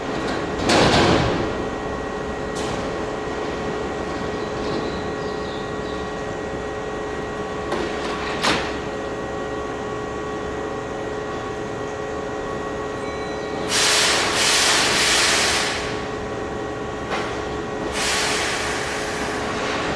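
Keihan electric train standing at the platform, its onboard equipment giving a steady hum with several fixed tones. Short bursts of compressed air hiss about a second in, for about two seconds around two-thirds of the way through, and again near the end, with a sharp click around the middle.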